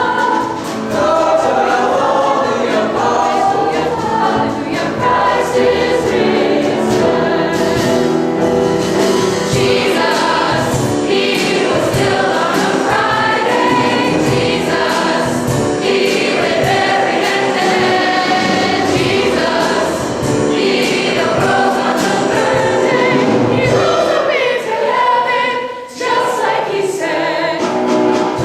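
Choir singing a sacred choral piece, with a brief drop in the sound about two seconds before the end.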